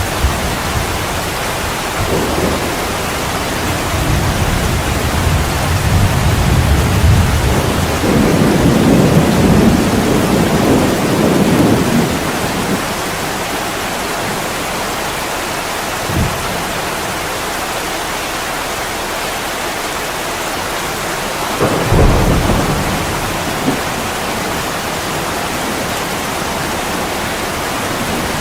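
Heavy rain falling steadily with thunder: a long low rumble builds from about two seconds in and fades around twelve seconds, a short low thud comes near the middle, and another rumble of thunder rolls about three quarters of the way through.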